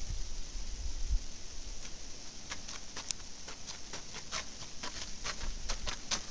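Footsteps crunching through icy, sleet-crusted snow: a run of short crisp crunches, about three a second, starting a little over two seconds in, over a steady hiss of falling sleet. Brief wind rumble on the microphone at the start.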